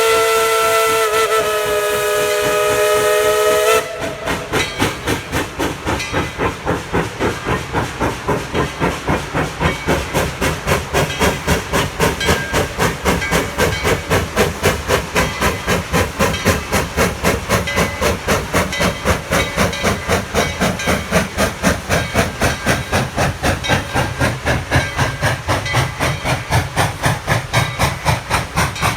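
Steam locomotive whistle sounding a held chord of several notes, cut off sharply about four seconds in, followed by the locomotive's exhaust chuffing in a steady, even rhythm as it works.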